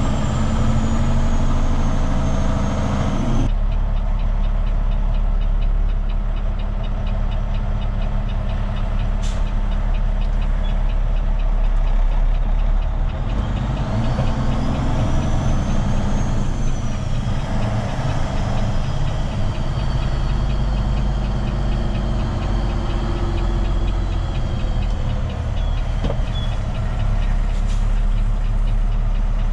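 Heavy diesel truck engine running steadily while driving, a continuous low drone that changes character abruptly twice.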